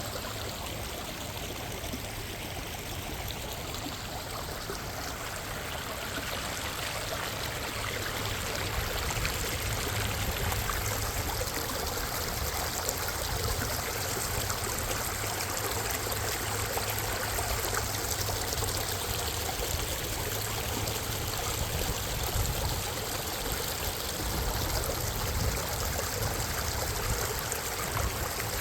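Minnehaha Creek's water flowing steadily over rocks, a continuous even splashing that rises slightly in loudness about a third of the way in.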